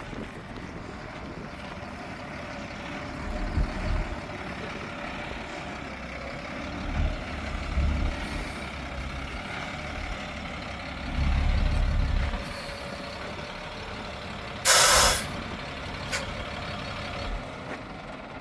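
GMC feed truck's engine idling steadily, its low end swelling a few times. Near the end, a short loud air-brake hiss, with a small click soon after.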